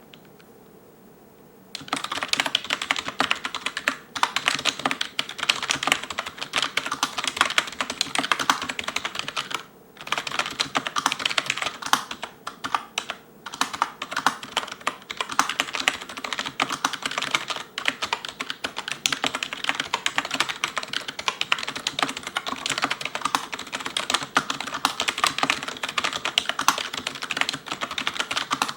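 Fast touch typing on an ELECOM TK-FDM088TBK wireless membrane keyboard: a dense, rapid patter of key presses with short pauses. It starts about two seconds in, after a quiet moment.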